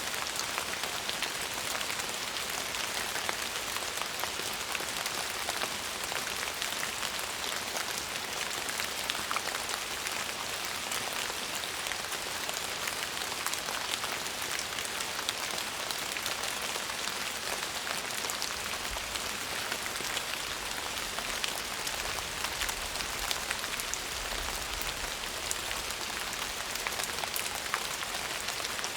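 Steady rain falling: a dense, even hiss of many small drop ticks, with a faint low rumble in the second half.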